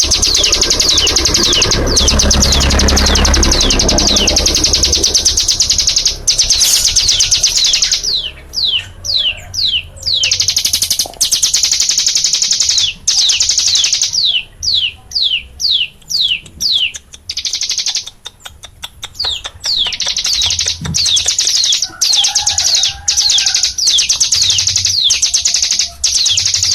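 Cigun songbird singing in the rapid 'nembak' (shooting) style: long, fast trills of repeated high down-slurred notes, broken around the middle by slower runs of separate descending notes before the fast trill returns.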